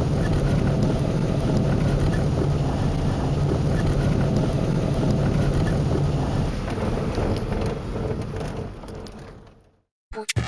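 Vehicle on the move: steady engine and road noise that fades out near the end.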